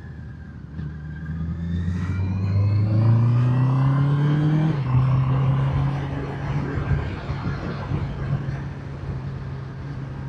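Motorcycle engine under way, rising in revs for about three seconds, then dropping in pitch near the middle as it shifts up a gear, and running steadily after.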